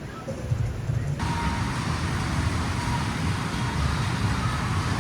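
Steady outdoor road traffic noise, a low rumble of passing vehicles, with a hiss that comes in abruptly about a second in.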